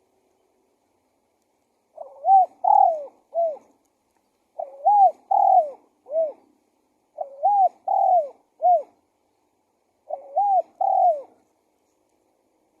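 Spotted dove (tekukur) cooing its song four times, each phrase a short lead note followed by two or three rising-and-falling coos, repeated about every three seconds.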